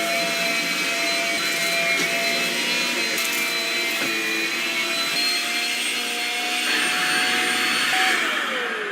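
Shark Rocket stick vacuum running with a steady high motor whine and rushing air, with a few clicks. Near the end it is switched off and the whine falls away as the motor spins down.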